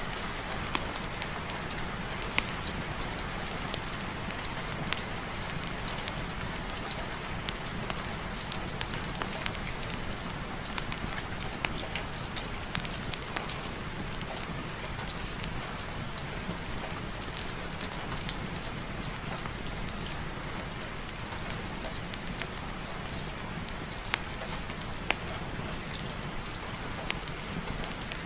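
Steady rain falling, with scattered, irregular sharp taps of drops over the even hiss.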